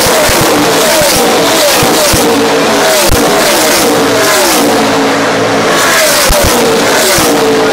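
A pack of NASCAR race trucks' V8 engines running at full throttle past the track, loud and continuous. Each truck's engine note drops in pitch as it goes by, one after another about every second.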